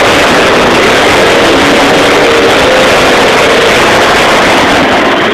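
Monster truck engine running loud and steady, with no crash impact.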